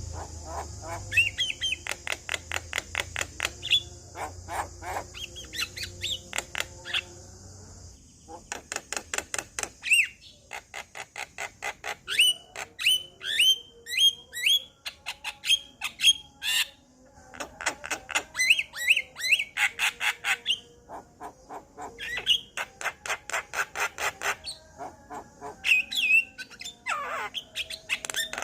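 Male Javan myna singing: phrases of rapid clicking notes mixed with short rising whistles and harsh squawks, broken by brief pauses. A steady high hiss runs behind the song for the first several seconds and returns later.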